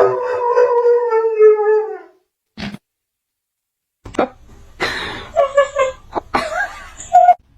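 A dog howling one long drawn-out note that sinks slightly in pitch and dies away about two seconds in. After a pause come a few short indistinct knocks and brief calls.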